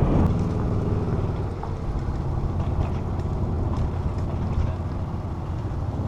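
Steady low rumble of wind and road noise while riding a bicycle along a paved path.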